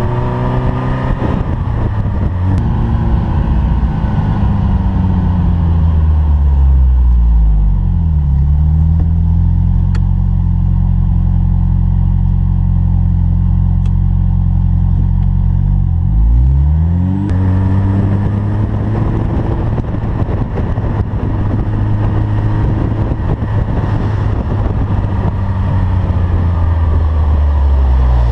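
1988 Ferrari Mondial 3.2's V8 engine running under varying revs. The revs fall about eight seconds in and hold lower with a softer tone, then dip and climb sharply about seventeen seconds in to a harsher sound that holds steady until the revs drop again at the very end.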